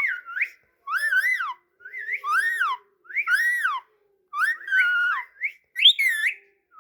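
Pet parrot whistling: a string of about six short whistled notes, each rising and then falling in pitch.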